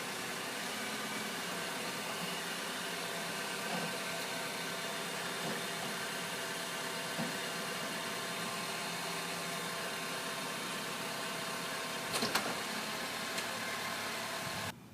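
2007 Honda Civic's 1.8-litre four-cylinder engine running steadily at low speed, as the car is driven up onto ramps. There is a brief knock about twelve seconds in.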